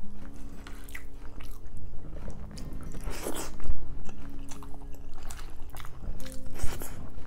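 Close-miked chewing of tender boiled pork hock and rice, with wet mouth sounds. A louder cluster of chewing comes about three seconds in and again near the end.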